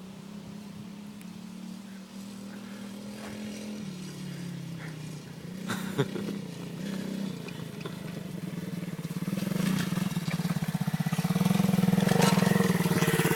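Superbike engine running, growing steadily louder over the second half as the bike builds speed and comes closer, with a single sharp click about six seconds in.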